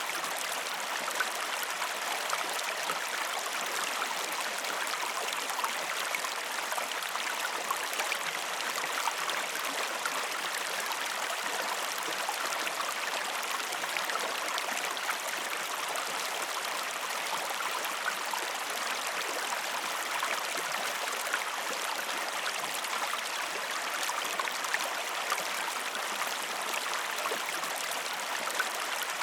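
Steady rushing and babbling of a flowing stream or river, with small splashes scattered through it.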